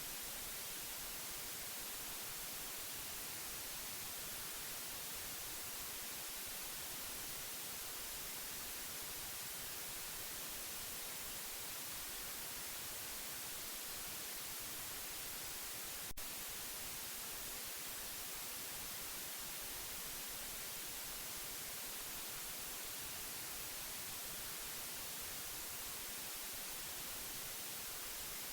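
Steady white noise, an even hiss weighted toward the high frequencies, for lulling a baby to sleep. A single faint click sounds about halfway through.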